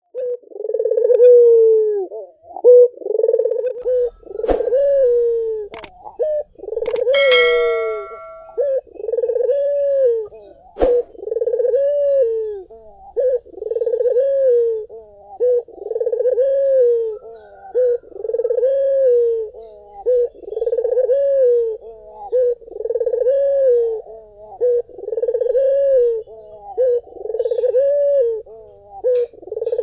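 Barbary dove (puter) cooing over and over, a rolling coo about every second and a half without a break. A few sharp clicks are heard in the first third, one followed by a brief ringing tone.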